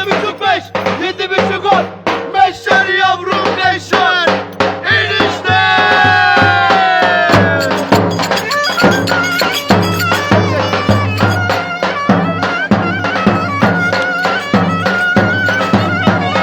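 Live Turkish folk dance music: a reedy wind instrument plays the melody, with a long downward slide about six seconds in, over steady drum beats.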